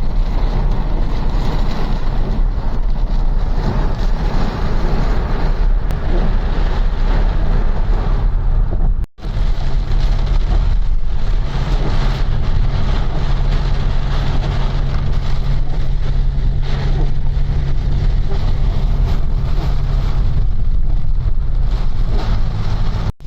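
Heavy rain falling, with wind rumbling on the microphone. The sound breaks off for a moment about nine seconds in and again near the end.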